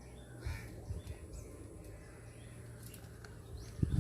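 Faint bird calls over a steady low hum, with a couple of soft thumps about half a second and a second in.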